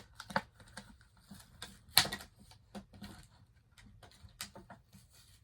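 Pokémon card box packaging being worked open by hand: a run of scattered sharp clicks and crackles, the loudest about two seconds in.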